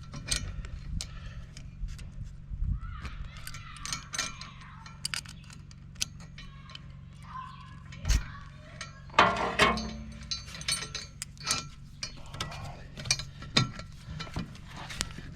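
Ratchets clicking and steel track links and chains clinking as the ends of a skid steer's over-the-tire track are pulled together, with irregular sharp clicks and a louder cluster of clanks about nine seconds in. A steady low hum runs underneath.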